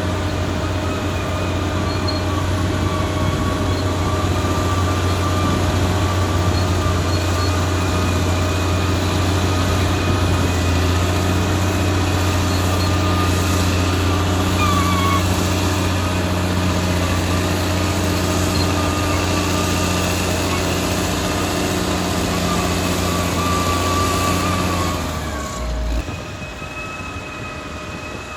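Caterpillar D6R XL crawler bulldozer's diesel engine running steadily under load, with a high metallic squeal from the steel tracks. Near the end the engine drops off sharply while the track squeal carries on.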